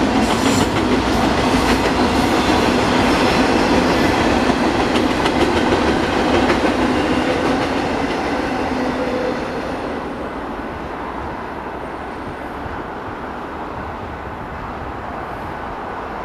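Union Pacific intermodal freight train rolling past, its wheels clacking over the rail joints. The sound drops off and grows quieter about two thirds of the way through.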